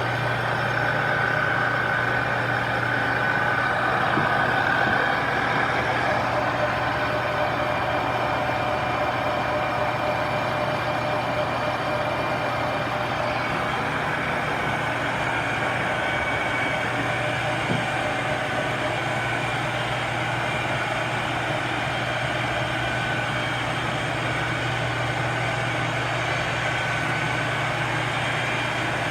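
Large metal lathe and its electric converter running steadily: an even low motor hum with a fainter high whine that is strongest in the first few seconds.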